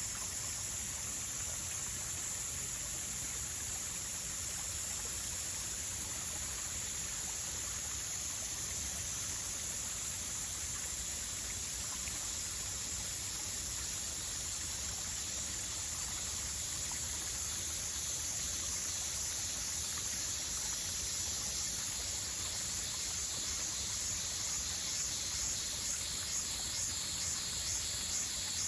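Outdoor nature ambience: a steady, high-pitched insect chorus over an even, low rushing hiss. In the last third a second insect joins with a regular pulsing call.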